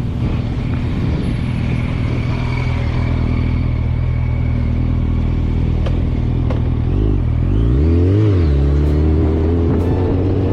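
A motor vehicle's engine running steadily. About seven seconds in the revs rise and fall once, then climb steadily as it accelerates.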